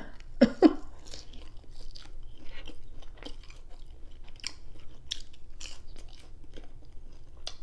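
A person eating fast-food French fries: two louder bites about half a second in, then steady chewing, a stream of small crunches and wet mouth clicks.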